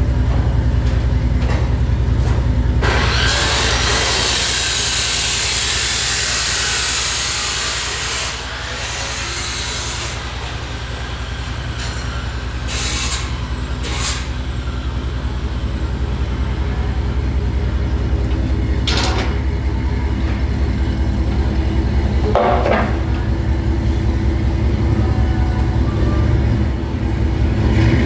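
Lowered GMC Sierra's 5.3-litre V8 running with a deep, steady rumble through long-tube headers, a catless Y-pipe and a Flowmaster Super 10 muffler, as the truck creeps along at low speed. A rushing, hissy noise rides over it from about three seconds in to about ten, and a few short sharp knocks come later.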